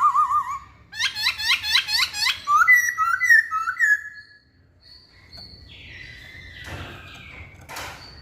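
Black-throated laughingthrush (Hong Kong poksay) singing: a wavering whistle, then a quick run of loud rising-and-falling whistled notes and shorter warbles. About four seconds in it goes quieter, with only soft fainter sounds and a click near the end.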